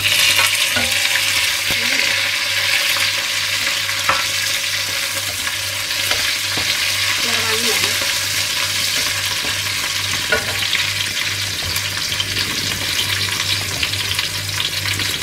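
Sliced lemongrass, galangal, ginger, bay leaves and lime leaves hit hot oil in a stainless steel wok with a sudden sizzle, then fry with a steady hiss. A wooden spatula stirs and knocks against the wok now and then.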